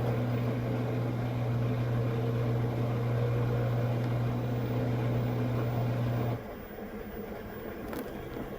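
Washing machine filling with water: a steady electrical hum that cuts off suddenly about six seconds in as the fill stops, leaving a quieter background.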